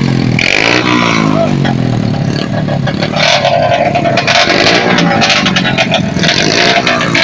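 Several small motor scooter and motorcycle engines running at low speed, revved up and down again and again, with a steady higher tone joining about three seconds in.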